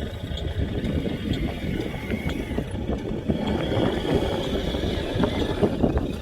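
Small electric motors and geared drives of radio-controlled construction models running, a steady mechanical whir with a faint high whine and frequent small clicks and scrapes.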